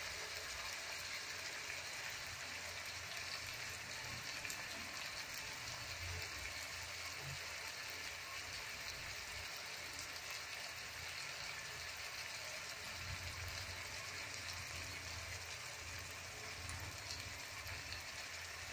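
Ginger chicken curry sizzling steadily in a metal pot.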